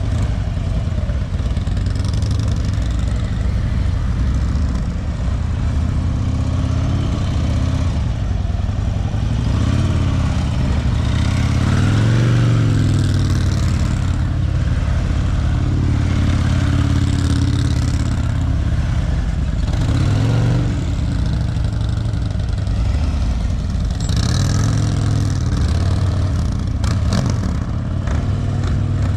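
Motorcycle engine running at low speed, its pitch rising and falling again and again as the throttle is worked on and off through tight slow-speed manoeuvres.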